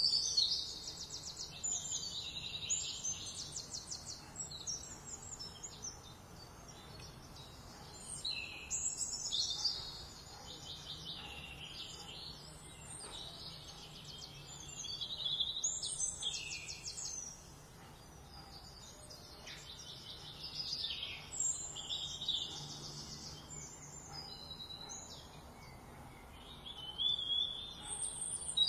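Songbirds singing, with rapid trilled phrases coming back every several seconds over a faint steady background hiss.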